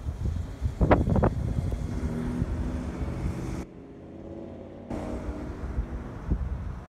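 Small-block Chevy 283 V8 of a 1967 Impala running as the car drives along the street, a steady engine note with low rumble. Wind buffets the microphone a few times about a second in.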